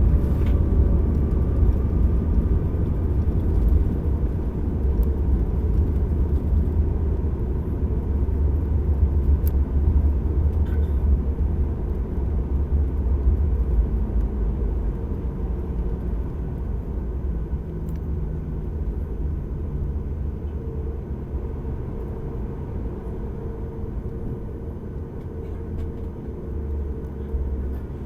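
Boeing 737 MAX 8 heard from inside the cabin after touchdown: a deep, steady rumble of engines and wheels on the runway that slowly fades as the aircraft slows down.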